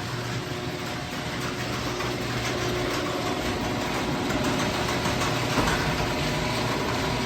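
Genie IntelliCode screw-drive garage door opener running with a steady motor hum as it drives the door closed.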